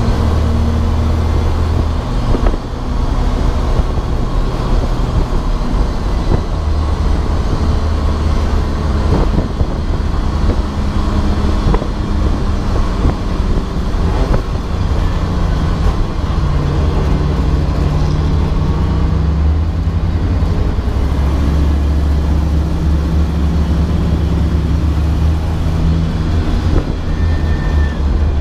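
Race car engine running hard under load, heard from inside the car. Its low drone shifts pitch up and down several times with throttle and gear changes, over steady road and wind noise.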